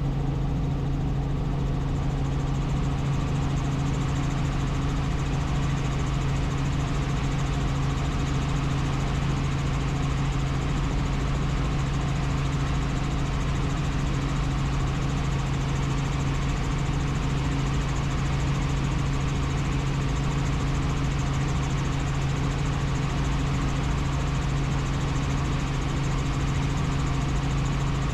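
Helicopter in flight: steady drone of the engine and rotors with a constant low hum, unchanging throughout.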